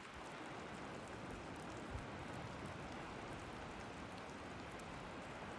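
Steady light rain falling, an even hiss with scattered faint drop ticks.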